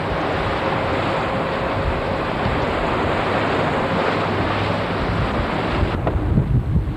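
Wind rushing over the microphone aboard a moving boat, a steady hiss mixed with the noise of water. About six seconds in the hiss drops away and low, gusty buffeting of the wind on the microphone takes over.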